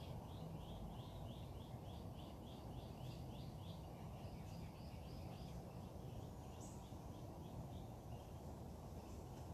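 Bird song: a bird repeats short high notes about three to four times a second in several phrases with brief pauses between them, with an occasional higher single note from another bird. Underneath runs a steady low background rumble.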